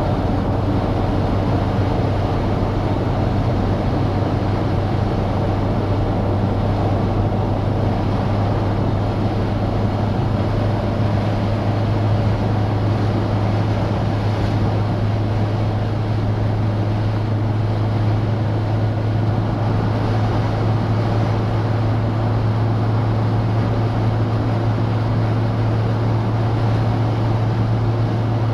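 Citroen DS four-cylinder engine and road noise while driving at a steady speed, a deep, even drone with a rushing haze over it; the drone rises slightly in pitch in the last few seconds as the car speeds up a little.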